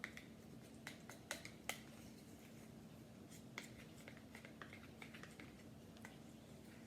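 A spoon stirring thick Greek yogurt mixed with melted chocolate in a bowl, with scattered light clicks of the spoon against the bowl, several close together in the first two seconds and more around the middle. A faint steady hum underneath.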